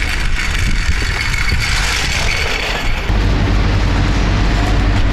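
A motor vehicle running with heavy low wind rumble on the microphone. A steady engine hum grows stronger about three seconds in.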